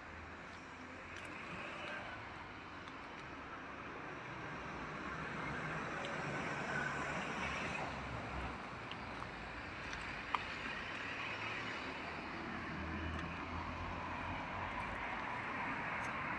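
Distant vehicle noise: a steady rumble that swells slowly over the first several seconds and then holds. A single faint click comes about ten seconds in.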